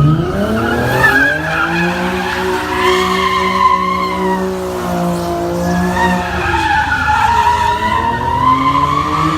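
Car engine at high revs with tires squealing under wheelspin. The revs rise in the first two seconds, hold steady, drop about six seconds in, then climb again near the end.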